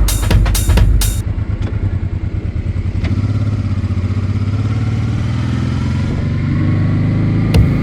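Honda NT650V Deauville's V-twin engine running steadily. An electronic drum beat cuts out about a second in and returns near the end.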